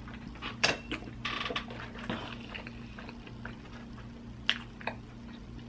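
Wet chewing and smacking of a mouthful of double cheeseburger: small irregular squishes and clicks, with a short squelchy stretch about a second in. A steady low hum runs underneath.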